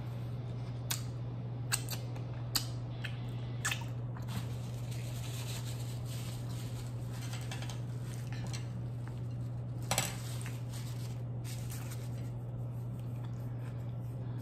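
Close-miked chewing of a mouthful of sushi, with sharp wet mouth clicks: several in the first four seconds and a louder one about ten seconds in. A steady low hum underlies it.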